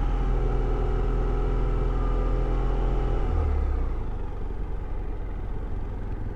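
Motorcycle engine running steadily under way. About three seconds in its note drops, and it settles to a quieter, even drone.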